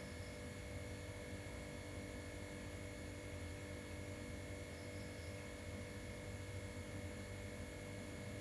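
A steady electrical hum made of several constant tones over a low hiss, with faint short high chirps about five seconds in.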